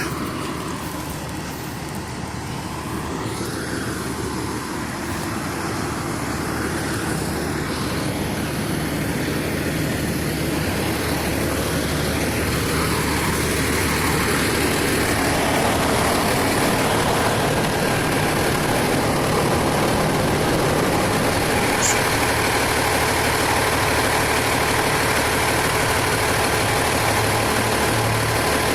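Large vehicle's engine running, growing louder over the first half and then holding steady.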